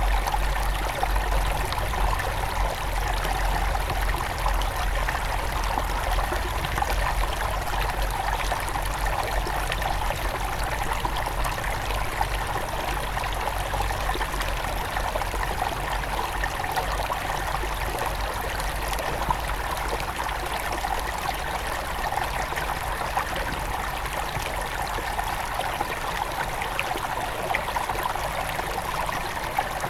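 Small forest river at its headwaters, water flowing and trickling over stones in a steady, continuous rush.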